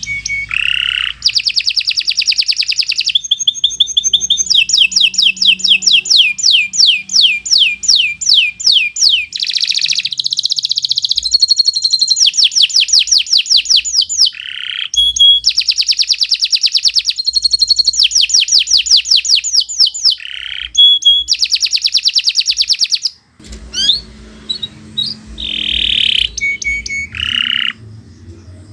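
Domestic canary singing a long, continuous song of rapid trills, each phrase a fast run of repeated notes, with brief gaps between phrases and a short pause about two-thirds of the way through.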